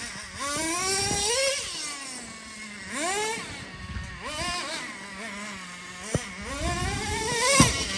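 Traxxas Revo 3.3 nitro RC truck's small two-stroke glow engine revving up and down in repeated bursts as it is driven, falling back to a steady idle in between. There are two sharp knocks, about six seconds in and near the end.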